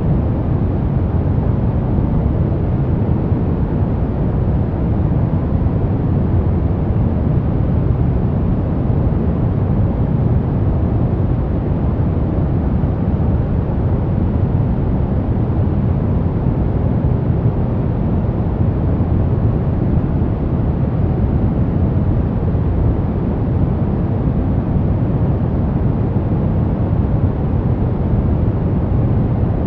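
Steady, unchanging white noise for baby sleep, strongest in the bass with little treble, so it sounds deep rather than hissy. The level holds constant throughout, with no breaks or events.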